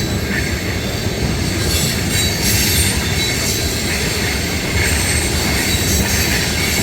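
Loaded ethanol tank cars of a long freight train rolling past at speed: a steady rumble of steel wheels on the rails, with faint high wheel squeal running through it.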